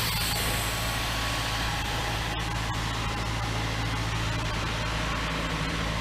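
Abrasive sandblasting of a truck's steel frame: a steady, unbroken hiss of the blast nozzle over a constant low engine drone.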